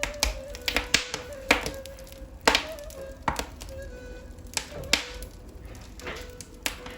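Wood fire burning in a fireplace, crackling with irregular sharp pops and snaps, the loudest about two and a half seconds in.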